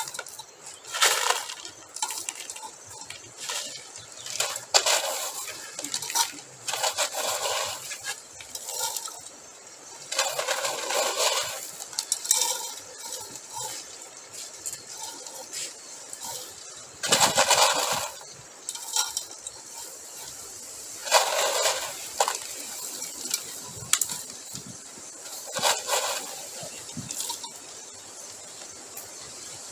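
Crushed stone gravel poured and pushed into place, rattling and clinking in irregular bursts, as the sides of a tabletop fireplace are filled.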